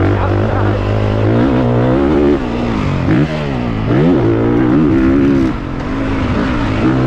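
450cc four-stroke motocross bike engine revving hard as it is ridden around the track, its pitch rising and falling repeatedly, with brief drops in loudness where the throttle is chopped.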